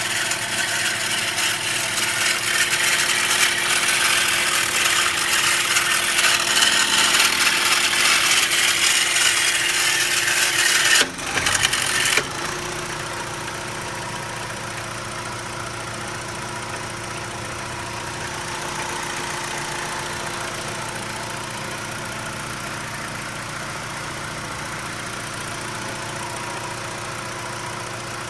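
2011 BMW 320i's four-cylinder engine idling with a loud, strange rattling noise, the fault the owner is asking about; the car also puffs dark exhaust smoke. About eleven seconds in the sound drops sharply and the engine goes on running quieter and steadier.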